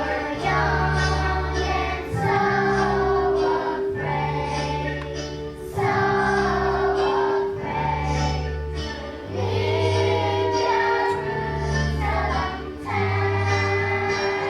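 A children's choir singing with instrumental accompaniment; a low bass line moves to a new note every second or two under the voices.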